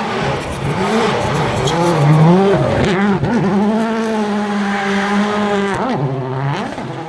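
Performance car engine under hard throttle, its pitch climbing and dropping with gear changes and lifts, then holding one steady high note for a couple of seconds before dropping again near the end.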